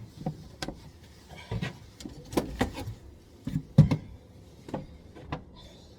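A scattered series of short clicks and knocks, the loudest a thump just before four seconds in.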